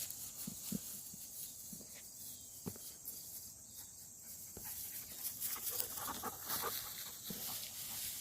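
Footsteps crunching through dry leaf litter and twigs on a woodland floor: uneven soft thuds, then a run of louder crunches from about five and a half seconds in. A steady high insect drone runs underneath.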